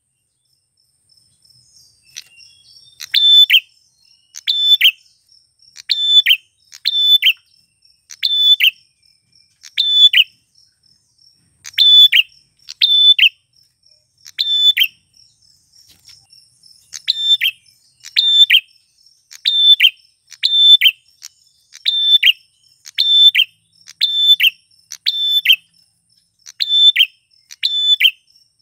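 Male prenjak (prinia) giving its loud, sharp call over and over, a short two-part note about once a second, starting about two seconds in. A faint, steady, high trill runs underneath.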